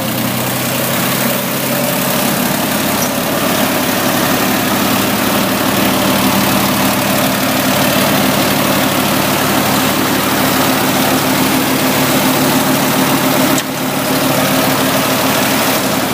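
Ford 2000 tractor's three-cylinder petrol engine running steadily at a fast idle through a homemade exhaust pipe fabricated from spare parts. The note is even throughout, with one brief drop about three-quarters of the way through.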